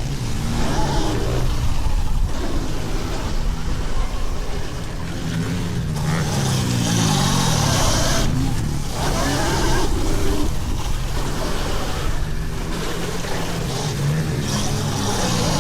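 Several pit bike engines revving up and down, their pitch repeatedly rising and falling as the riders work the throttle.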